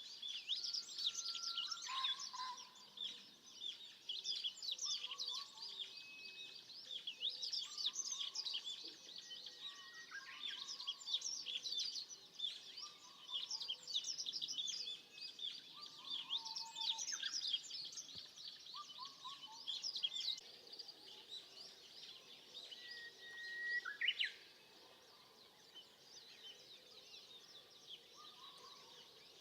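Several wild birds singing together: dense, high twittering and trills over a lower, short repeated phrase about every two seconds. The chorus thins out after a louder call near the end.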